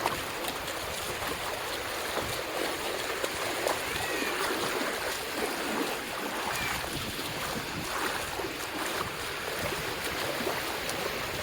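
Steady hiss of surf washing onto a sandy beach, with a few faint short high calls in the background.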